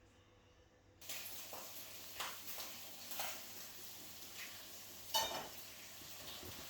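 Pancake frying in a pan: a steady sizzle starts about a second in, with a few clinks and scrapes of a utensil against the pan, the loudest about five seconds in.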